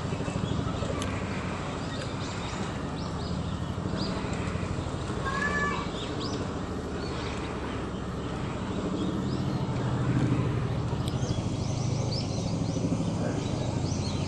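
Small birds chirping now and then, most often in the second half, over a steady low rumble.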